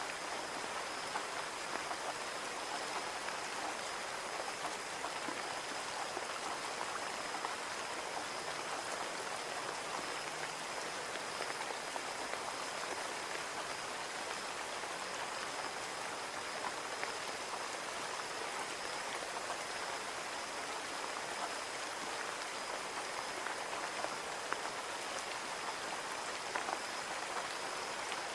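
Steady rain on a window: an even hiss with scattered sharper drop taps. A faint steady high whine runs underneath.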